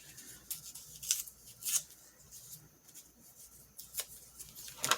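Scattered light clicks and rustles of paper cut-outs and craft supplies being handled, with a sharper knock near the end.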